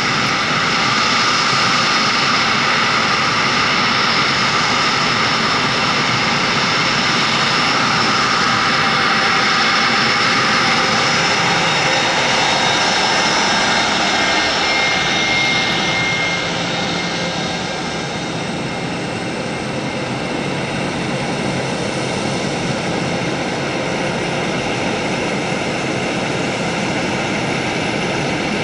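Boeing 717's Rolls-Royce BR715 turbofan engines close by, a loud, steady jet roar with a high fan whine, easing slightly about two-thirds of the way through.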